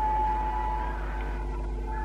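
Indian express train with LHB coaches running along the track: a steady rumble from the wheels on the rails under a sustained high-pitched whine, with faint tones sliding up and down.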